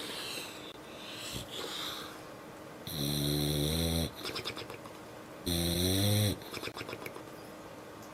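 A sleeping dog snoring: quiet breathing, then two loud, drawn-out snores about two and a half seconds apart. Each trails off in a rapid rattling flutter.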